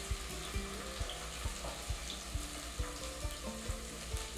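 Diced onion and carrot sizzling as they go into hot olive oil in a pot, with a spatula scraping them in. Soft background music plays under it.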